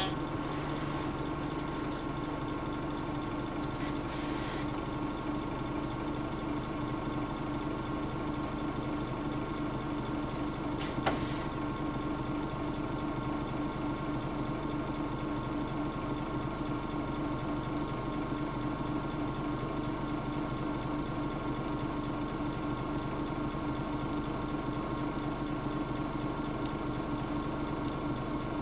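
Nissan Diesel UA bus's PF6HTA diesel engine, heard from inside the bus, running at an even, unchanging speed. There are short hisses about four seconds and about eleven seconds in.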